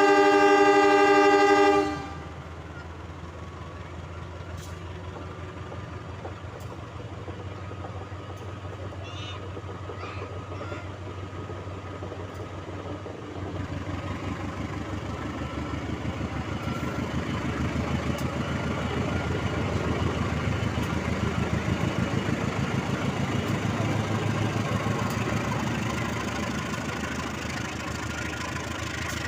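A diesel locomotive's horn sounds one loud blast that cuts off about two seconds in. After it comes the locomotive's steady engine and running noise, which grows louder from about halfway through.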